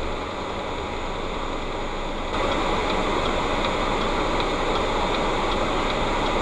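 Car on the road, heard from inside through a dash cam: a steady rush of engine and tyre noise that jumps suddenly louder about two seconds in, with faint regular ticking after that.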